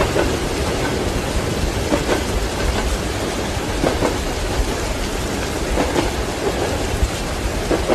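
Train wheels clacking over rail joints about once every two seconds, over a low rolling rumble and steady rain.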